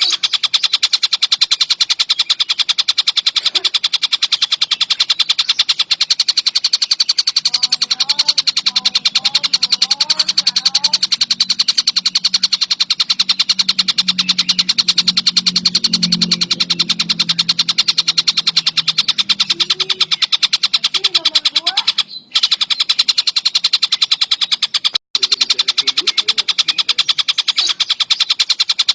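Tengkek buto kingfisher calling in a loud, very fast, continuous rattling trill. It breaks off twice briefly near the end.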